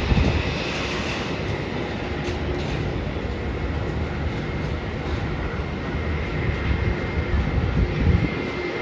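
Airbus A320 jet airliner departing at takeoff power, its engines a steady roar with a thin high whine over it. Wind buffets the microphone in gusts.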